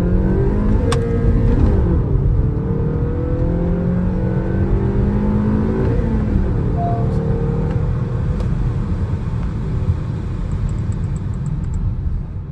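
Honda Elevate's 1.5-litre naturally aspirated four-cylinder i-VTEC petrol engine under hard acceleration. Its pitch climbs and falls back about two seconds in and again about six seconds in, as it changes up through the gears.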